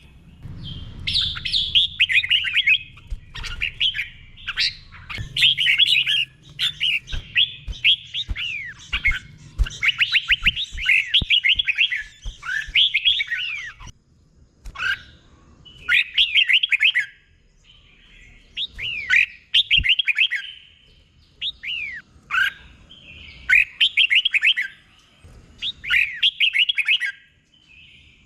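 Red-whiskered bulbul singing: quick, warbling whistled phrases of a second or two each, repeated again and again with short pauses between them.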